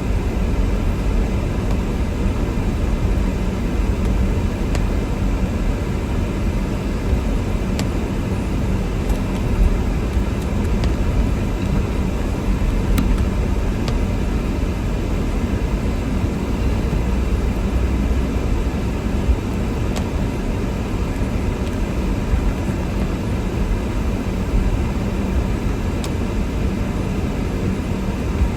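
Car driving on a snowy road, heard from inside the cabin: a steady low rumble of engine and tyre noise, with a few faint clicks.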